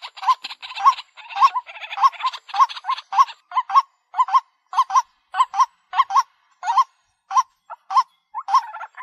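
White-breasted waterhen calling: a run of short, hooked, hoarse notes, about two or three a second. Over the first four seconds a dense rough chatter fills the gaps between the notes; after that the notes come singly.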